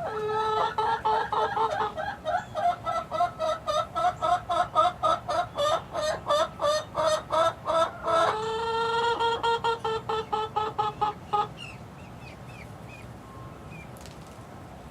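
Young chickens clucking in a rapid run of repeated calls, then a held, drawn-out call that stops abruptly about eleven seconds in, followed by a few faint high peeps.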